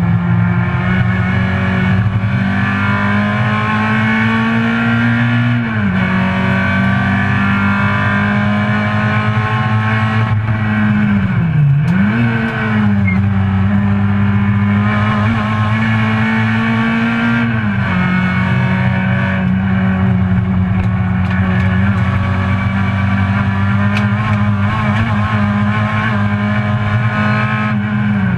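Citroen C2 GT track car's engine running hard at high revs, heard from inside the stripped, caged cabin. Its note climbs slowly and steadily, then drops briefly a few times as the driver shifts gear or lifts off, once sharply about twelve seconds in and again near the end.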